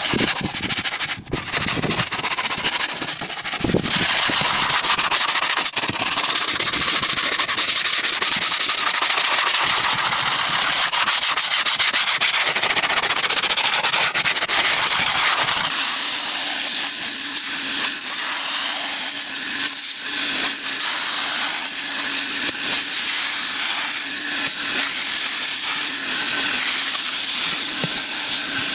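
Cleaning equipment on a truck interior: a loud, steady hiss with scrubbing in the first half, and a steady hum joining in about halfway through.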